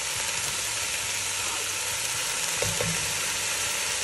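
Diced onions, carrots, peppers and celery sizzling steadily in hot oil in an enamelled cast-iron pan.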